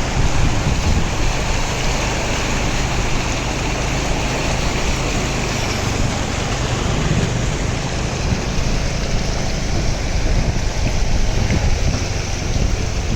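Motorbike engine running as a low steady hum under a constant rush of wind on the microphone while riding.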